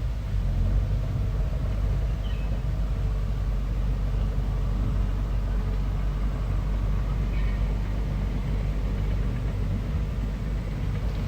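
Bulldozer's diesel engine running steadily with a low rumble, with two faint brief high squeaks a few seconds apart.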